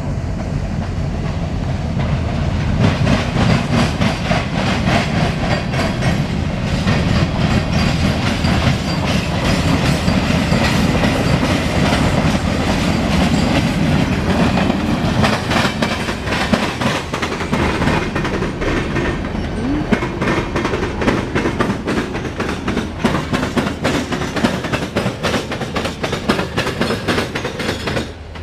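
CSX local freight train rolling past in reverse, its wheels clicking rapidly and steadily over the rail joints over a low rumble, getting louder about three seconds in.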